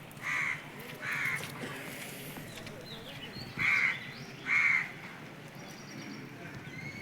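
A crow cawing four times, in two pairs about three seconds apart, over the steady hiss of heavy rain.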